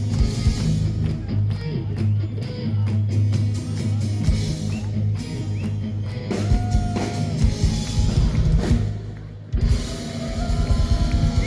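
Live band playing rock music with drum kit and guitar. The music drops off briefly about nine and a half seconds in, then starts again.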